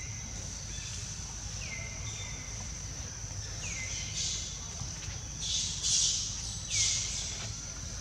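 Outdoor ambience: a short falling bird call repeated about every two seconds over a steady high-pitched drone, with two louder bursts of hiss in the second half.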